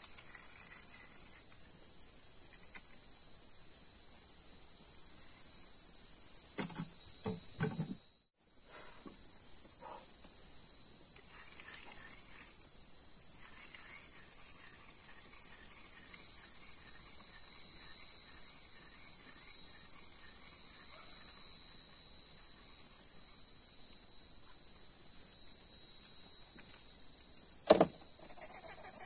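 Steady high-pitched chorus of crickets and other night insects, breaking off for a moment about eight seconds in. A few soft knocks come just before the break, and a single sharp click near the end.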